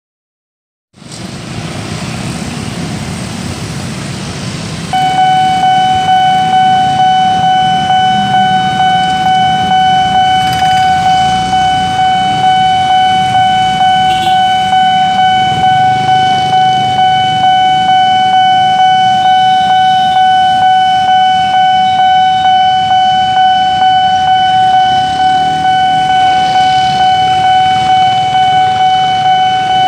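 Railway level-crossing warning alarm sounding: a loud, steady electronic tone that starts about five seconds in and holds, pulsing slightly, over the hum of road traffic waiting at the crossing.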